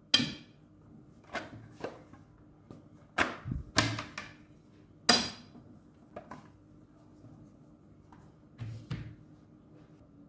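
Kitchen utensils and dishes being handled during pastry making: a string of separate sharp knocks and clatters, some in quick pairs, the loudest near the start and about five seconds in.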